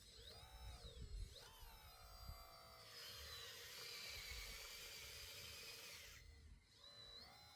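Small electric motor of a radio-controlled model whining, its pitch rising and falling as it speeds up and slows. About three seconds in it turns into a louder, hissy buzz for roughly three seconds, then drops back to a steadier whine.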